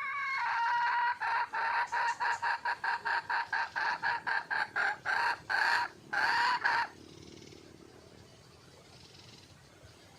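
Red junglefowl hen calling: a drawn-out note, then a rapid string of clucks about five a second, ending in two longer notes. This is a wild hen's call for a mate.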